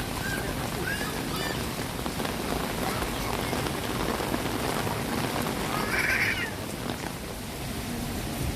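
Steady rain falling, with a few short chirp-like sounds in the first second or so and a brief, louder, higher-pitched sound about six seconds in.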